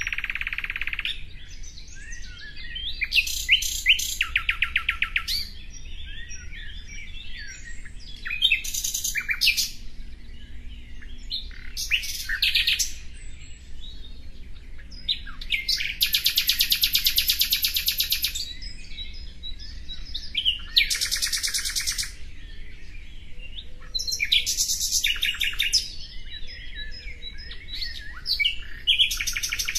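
Songbirds singing: bursts of high chirps and rapid trills every second or two, one long fast trill in the middle being the loudest.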